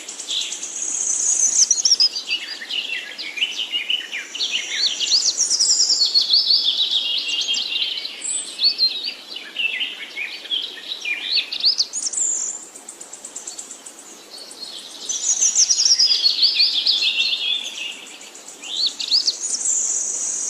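A songbird singing long phrases of rapid, high chirps. Each phrase starts high and steps down in pitch. The phrases come three times, with a pause of a couple of seconds in the middle.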